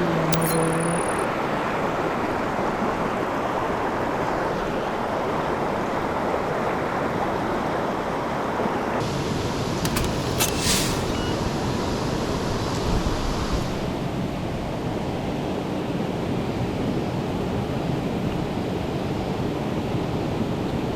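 Mountain stream rushing steadily, its flow raised and tinged with runoff after a typhoon. A brief tone sounds at the very start and a few sharp clicks come about ten seconds in.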